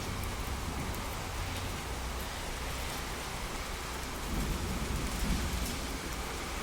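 Steady rain falling, with a low rumble swelling about four seconds in and dying away a second or so later.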